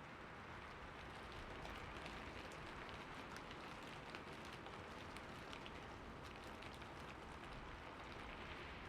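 Steady rain falling, an even wash of noise with many individual drops ticking close by. No thunder is heard.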